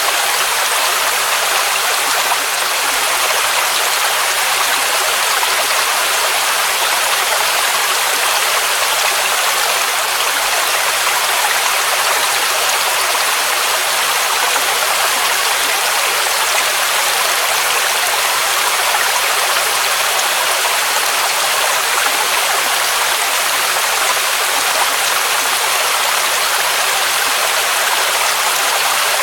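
Waterfall rushing steadily, an even hiss of falling water that is strongest in the upper range and has little low rumble.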